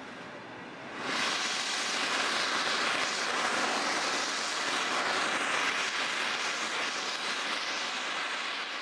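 Steam locomotive letting off steam: a loud, steady hiss that starts suddenly about a second in and holds almost to the end.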